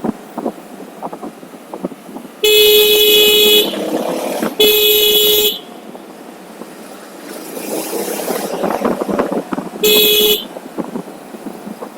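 Vehicle horn honking three times at one steady pitch: two blasts of about a second each, then a shorter one near the end, over wind and road noise from riding.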